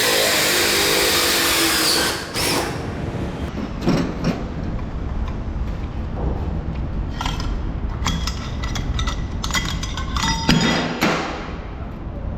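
Cordless drill spinning a tungsten carbide hole saw into a stainless steel plate: a loud cutting noise for about two seconds that then stops. After it come scattered metallic clicks and clinks.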